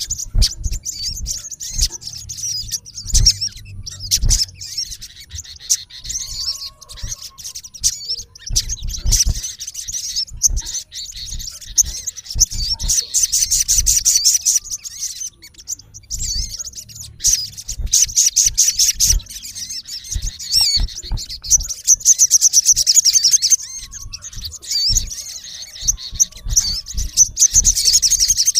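Male olive-backed sunbird giving rapid, sharp chirps and fast trilling runs in repeated bouts, the aggressive calling a male directs at a rival. Scattered low knocks run under the calls.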